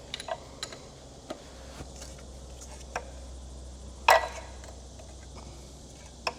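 Scattered light clicks and knocks of hand work on the engine, about seven in all, the loudest about four seconds in, over a steady low hum.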